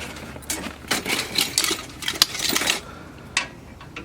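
A quick run of light knocks and clatter for about three seconds, then it dies down.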